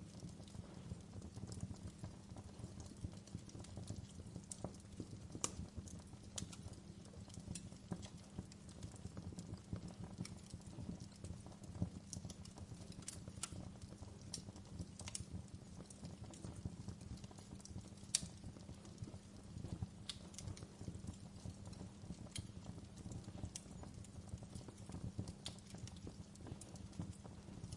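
Wood fire burning in a fireplace: irregular sharp crackles and pops over a low steady rumble, with one louder snap about two-thirds of the way through.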